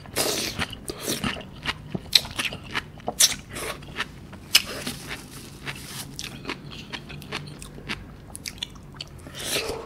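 Close-miked chewing of sauce-dipped sea grapes (latok), with many sharp, irregular crackling clicks as the little beads burst between the teeth.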